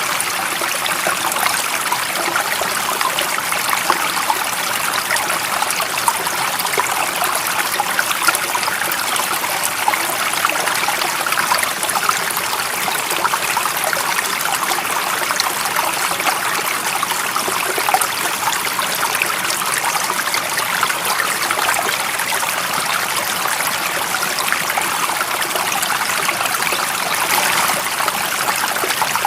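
Running water of a stream flowing steadily, a continuous even rush with no change in level.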